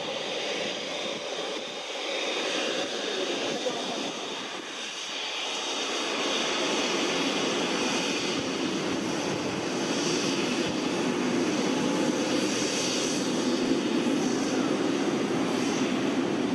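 Jet airliner engines running with a steady rush that grows somewhat louder from about five seconds in.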